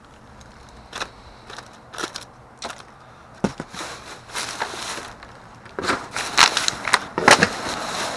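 Rummaging through discarded packaged goods: plastic wrappers and bags crinkling and crackling, with scattered clicks and knocks. It gets busier and louder from about six seconds in.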